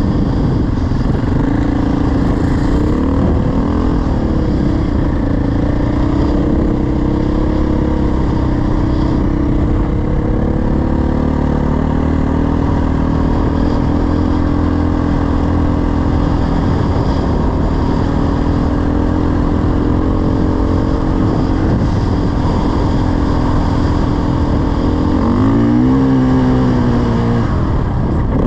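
Dirt bike engine running under steady load while being ridden, its pitch mostly even with small shifts. Near the end it revs up and drops back.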